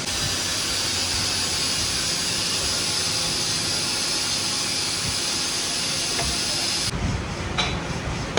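A loud, steady hiss that stops abruptly about seven seconds in, followed by a few low knocks.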